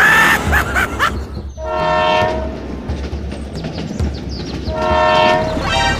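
A horn sounds twice, each blast steady and less than a second long, about three seconds apart, over a steady low engine rumble.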